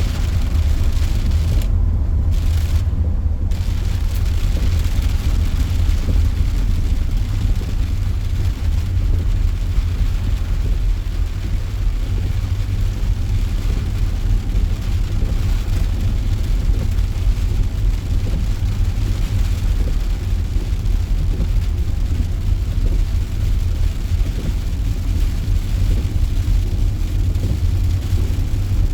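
Steady road noise inside a moving car: a constant low rumble of tyres and engine while driving.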